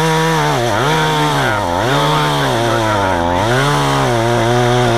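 Efco MT 3600 two-stroke top-handle chainsaw cutting small log chunks at high revs, its pitch sagging and recovering about once a second as the chain bites into the wood.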